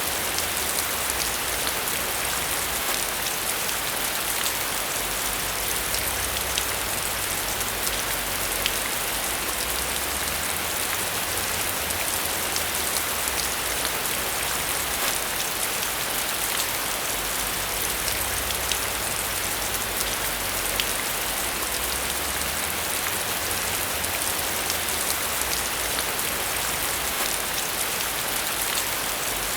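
Steady rain falling, a constant hiss with fine drop ticks scattered through it.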